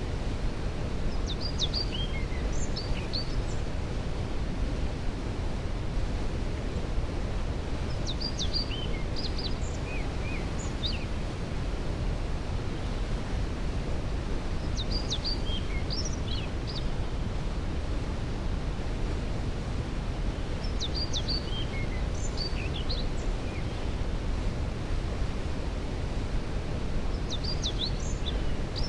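Waterfall rushing with a steady, deep sound, while a songbird sings a short phrase of quick high notes about every six seconds, five times in all.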